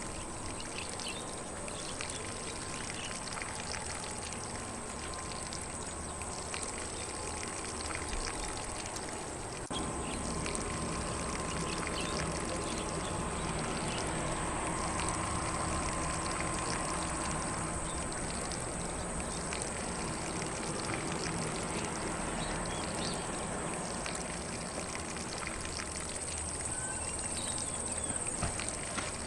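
Lawn sprinkler spraying water across grass, a steady hiss with a faint high whine, a little louder from about ten seconds in.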